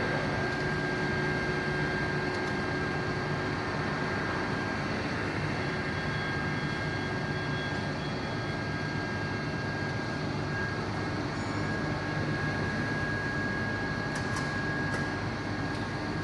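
A vehicle engine running steadily, a continuous low hum with a thin, steady high whine over it.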